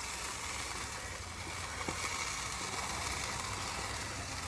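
Steady hiss of lit gas grill burners with a low hum underneath, with one faint click about two seconds in.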